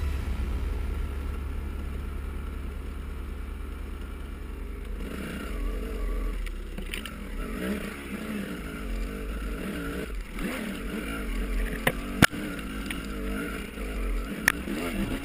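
Off-road motorcycle engine running and revving unevenly, over a low rumble at first, with sharp knocks about twelve seconds in.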